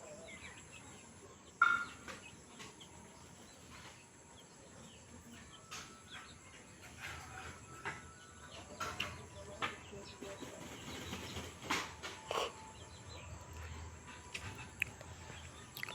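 Scattered short bird calls and chirps, the loudest a single sharp call about a second and a half in, over a steady high-pitched whine.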